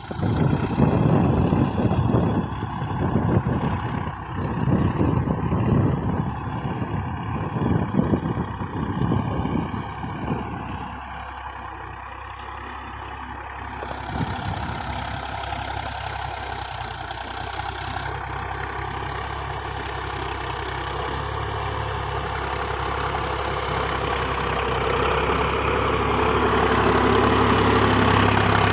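Tractor diesel engine running, surging in heavy, uneven pulses for the first ten seconds or so, then settling into a steadier, quieter run that grows louder again toward the end.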